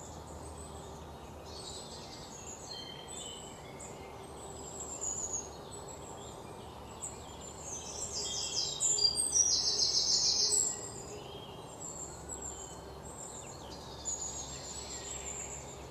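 Forest birds chirping over a faint steady background. A louder rapid trill of evenly spaced notes runs for a few seconds around the middle.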